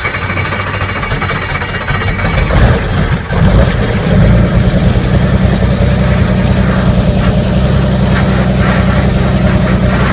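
Robinson R44 helicopter's six-cylinder Lycoming piston engine being started: about three seconds of rough cranking, then it catches about four seconds in and settles into a steady run.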